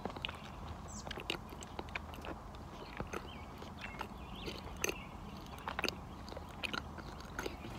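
Close-miked ASMR chewing of a mouthful of cookie: irregular wet lip smacks and mouth clicks, over a low steady hum.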